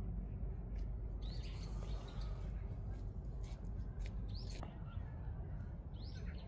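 Birds chirping in a few short, arching calls over a steady low outdoor rumble.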